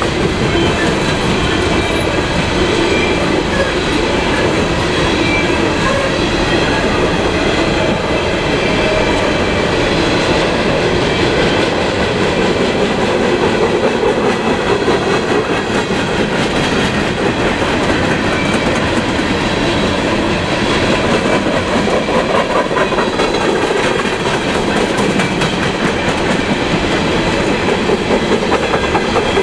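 Freight train cars rolling past, a steady rumble of wheels on rail with clickety-clack over the rail joints.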